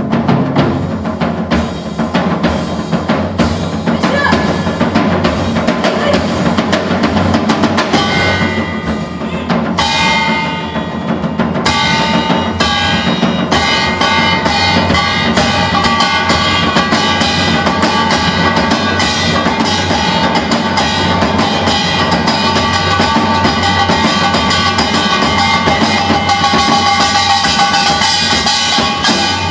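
Korean fusion traditional-music ensemble playing live, driven by busy drumming; from about eight seconds in, sustained melodic instrument lines join over the drums.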